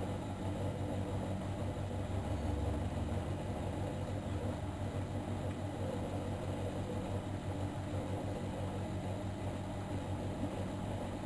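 Miele Novotronic Meteor 2200 front-loading washing machine running steadily during a 95°C boil wash, with a constant low motor hum and a rushing noise.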